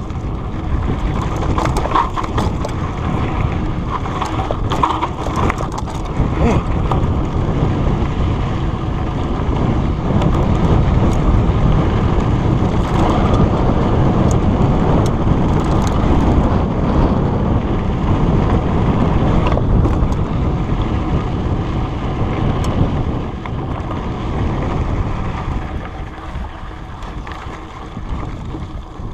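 Wind buffeting a chest-mounted GoPro, with the rumble and scattered rattles of riding fast over a rough trail. It is loudest through the middle and eases near the end.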